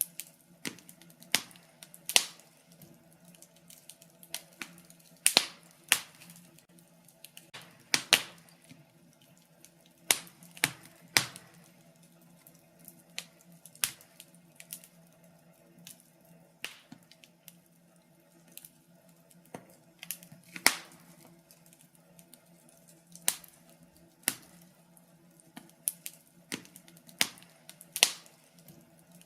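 Wood fire in a fireplace crackling: irregular sharp pops and snaps, roughly one or two a second, over a faint steady hum.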